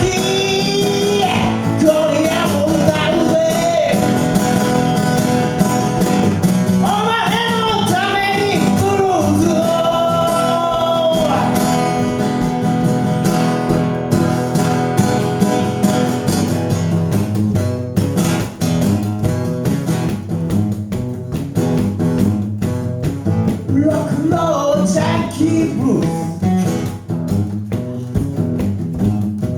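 A live duo playing an original song: vocals over guitar. The singing stops about twelve seconds in and the guitar carries on with busy picking, and a short vocal line returns later.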